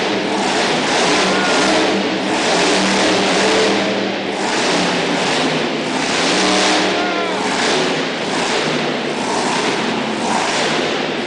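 Monster truck engine running loud and revving up and down, with a voice heard over it.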